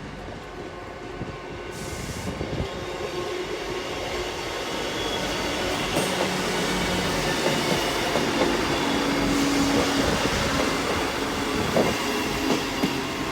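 Class 150 Sprinter diesel multiple unit running into the station past the platform, with its diesel engine and wheels on the rails, getting louder as it comes closer.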